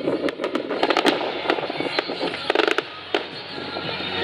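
Fireworks going off: many sharp bangs and crackles in quick succession.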